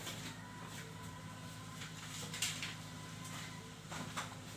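Quiet room tone with a steady low hum, broken by a few faint knocks about halfway through and again near the end.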